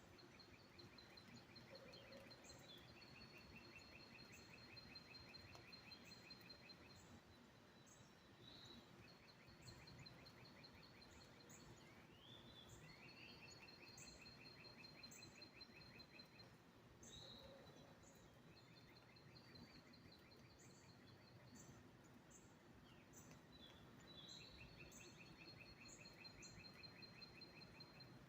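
Faint songbirds singing: long, rapid trills lasting a few seconds each, with rising slurred notes between them, over a low background hiss.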